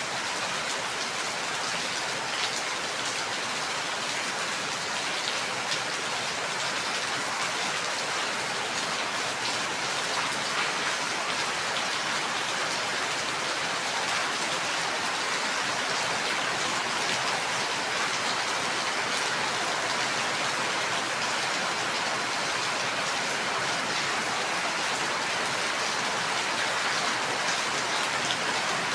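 Steady, heavy rain falling, a dense even hiss of drops on surfaces with fine individual drop ticks and no thunder.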